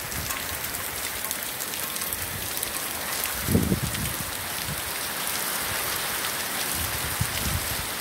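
Heavy rain falling steadily on streets and roofs, a constant hiss of downpour. Low thumps sound underneath now and then, the loudest about three and a half seconds in.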